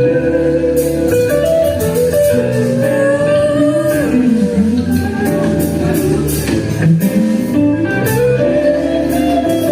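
Live band playing: a guitar lead line with bending, held notes over bass and drums.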